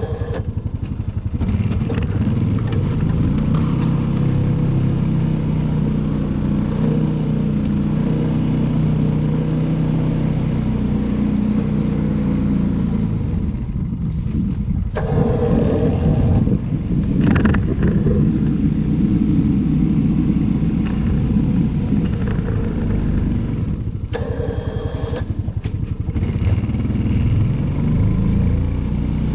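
Engine of a snow-clearing machine running steadily under load, its pitch drifting up and down, with a few brief changes in its sound partway through.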